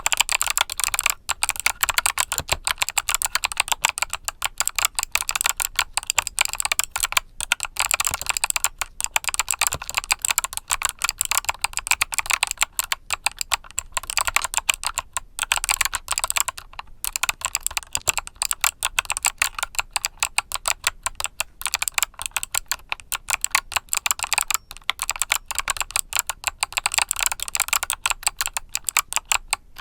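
Continuous fast typing on a mechanical keyboard with Kailh Box Summer switches: a dense stream of sharp key clicks, with a brief pause about seventeen seconds in.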